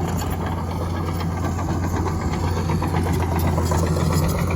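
An engine idling steadily: a low, even hum with a fast ticking running through it.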